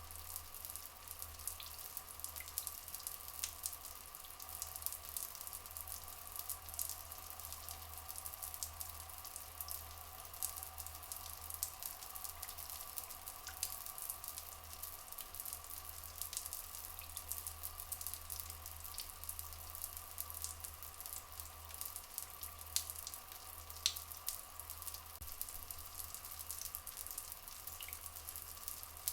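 Water flowing in a rainforest soundscape, a steady trickle of many small splashes and crackles, over a faint steady drone. A few brief, high chirps break through now and then.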